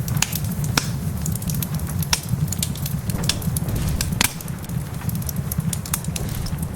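Wood fire crackling in a fireplace, with irregular sharp pops and snaps, a louder pop about a second in and another about four seconds in, over a steady low rumble.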